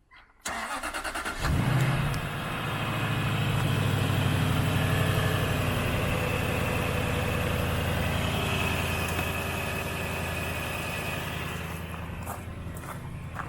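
2006 Jaguar XK's V8 engine on a cold start: the starter cranks for about a second, the engine catches and flares up, then settles into a steady fast idle that eases slightly toward the end.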